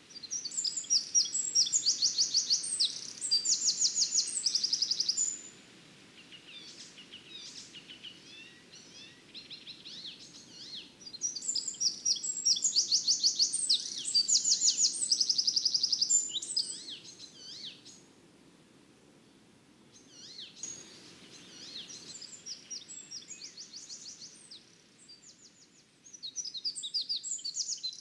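A songbird singing fast, high-pitched trills in long bouts of several seconds, with quieter twittering between the bouts.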